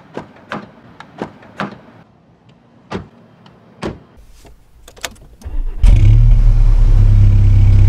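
A few light clicks and knocks at the car door, then about six seconds in the 2013 VW Mk6 GTI's 2.0 TSI turbocharged four-cylinder starts and settles into a loud, steady idle through its exhaust.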